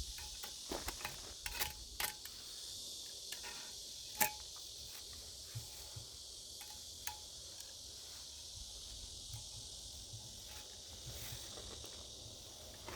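Steady high insect chorus, like crickets, under scattered light clicks and knocks, the sharpest knock about four seconds in.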